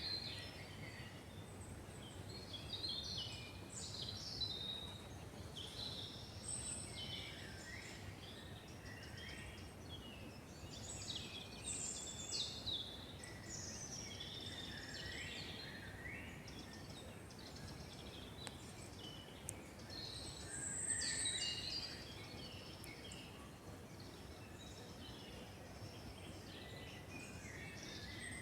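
Several songbirds singing and chirping in a forest, with overlapping short trills and whistles, over a faint low background rumble.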